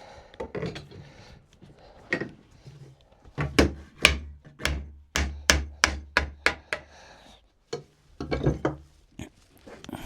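Sharp blows on a wooden frame, knocking its dry-fitted joints apart: a quick run of about ten knocks with a dull thud under each, then a few more knocks later on.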